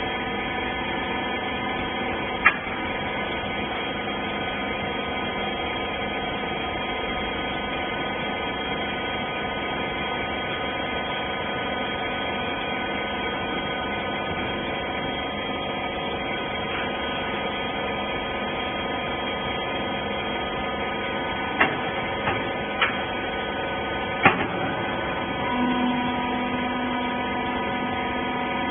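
Wiper bagging baler running with a steady machine hum, with a few sharp clicks about two and a half seconds in and a cluster of clicks near the end; a lower, steadier tone joins shortly before the end.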